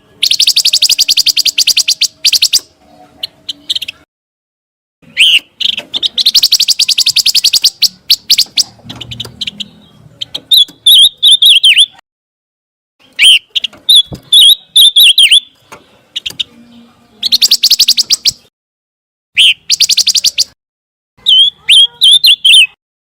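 Recorded song of a pancawarna bird, loud and clear: bouts of fast, buzzy trills of rapidly repeated high notes alternate with shorter phrases of separate twittering chirps, with brief silent gaps between bouts.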